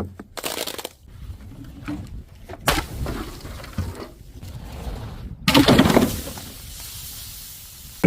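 Glass bottles breaking: a run of separate knocks and cracks, then a louder crash about five and a half seconds in that fades into a steadier crunching noise.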